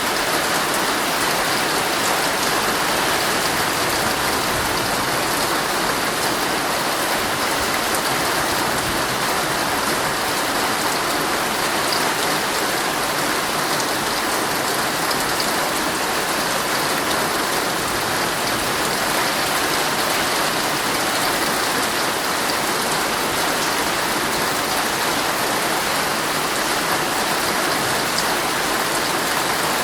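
Heavy rain falling on a tent: a steady dense hiss with scattered drop taps.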